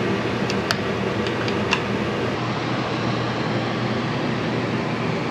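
Small air conditioner running with a steady hum, with a few light clicks in the first two seconds.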